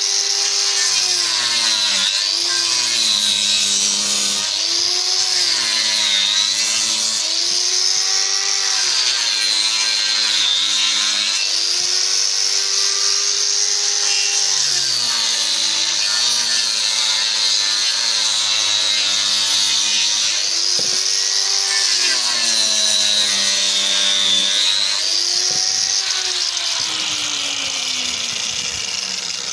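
Electric power tool cutting into a wooden blank, its motor pitch dipping as it bites under load and rising again every few seconds, easing off near the end.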